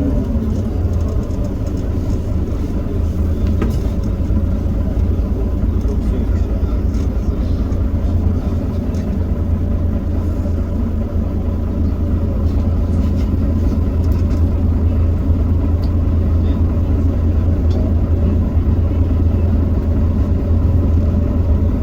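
Heuliez GX327 city bus's Iveco Cursor 8 six-cylinder diesel engine running steadily with a deep, even drone.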